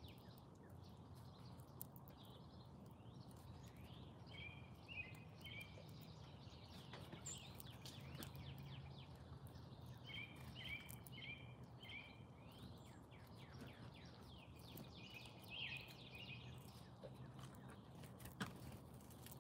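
Faint backyard ambience. A songbird repeats a short phrase of three or four quick, high falling notes four times, several seconds apart, over a low steady hum. Scattered soft ticks are heard, with a sharper one near the end.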